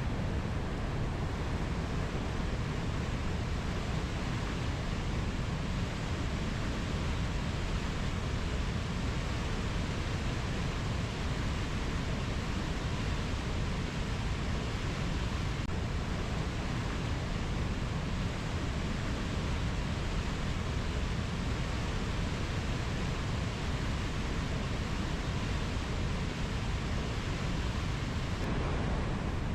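Rainforest ambience: a steady, even rushing noise with no distinct bird or insect calls standing out.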